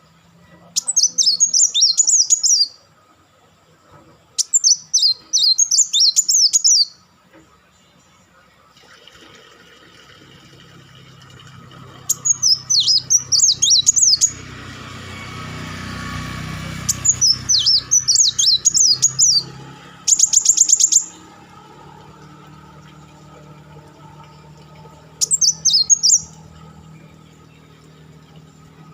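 Kolibri wulung (a sunbird) singing in short bursts of rapid, high twittering, about seven bursts of around two seconds each with pauses between. One burst about 20 seconds in is an even, fast trill. A low hum and a rushing noise swell up in the middle.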